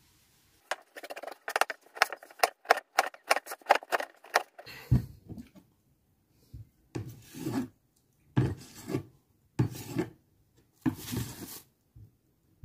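Dry garlic and onion skins crackling and rasping as they are peeled by hand: a quick run of scratchy strokes, about four a second, for the first few seconds, a few dull knocks on the cutting board, then four slower, heavier rubbing bursts.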